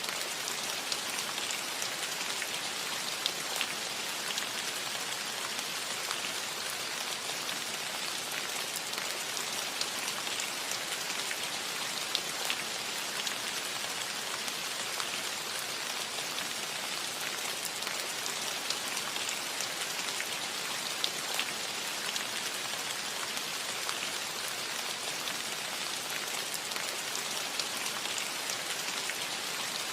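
Steady rain falling on a cottage roof, an even hiss with the clicks of single drops landing here and there.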